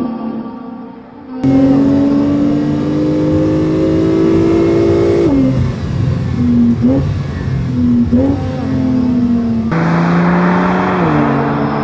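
Porsche 911 Targa 4 GTS twin-turbocharged 3.0-litre flat-six with sport exhaust under acceleration: the revs climb steadily, drop sharply about five seconds in, then flare up briefly twice. A hiss joins the engine near the end, where the revs drop again.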